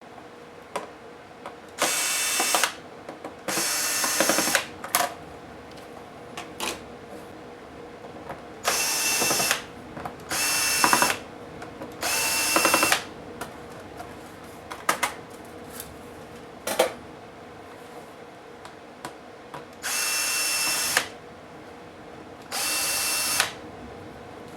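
Small electric screwdriver running in seven short spurts of about a second each, backing screws out of a laptop's case. Light clicks and taps between the spurts come from screws and plastic parts being handled.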